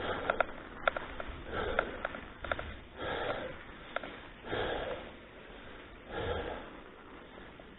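A cyclist breathing hard, with a heavy breath about every second and a half that gets quieter toward the end. A few sharp clicks in the first couple of seconds.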